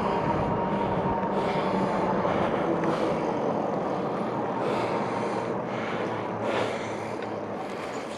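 Rushing wind and rolling noise from riding an electric bike along a trail, with a faint steady whine in the first couple of seconds that fades out; the noise slowly gets quieter.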